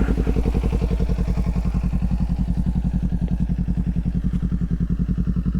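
Kawasaki Z400's parallel-twin engine idling with the bike stopped, a steady, even pulse that holds at one speed.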